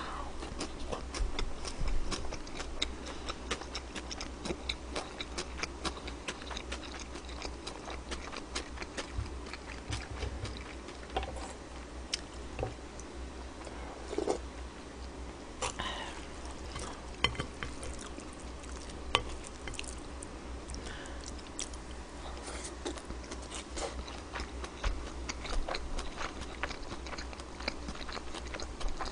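Close-miked chewing and eating sounds, with many small sharp clicks scattered through, as of chopsticks and a spoon on the dishes.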